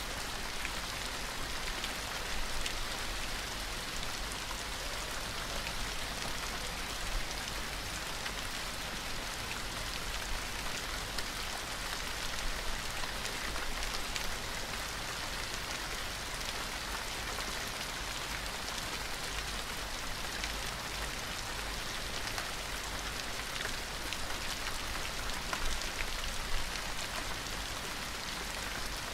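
Steady rain falling on a surface, an even hiss of many drops with faint scattered drop ticks.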